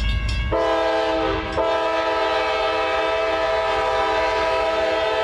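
Train horn blowing: a short blast, then a long steady blast held for about four seconds, several tones sounding together as a chord.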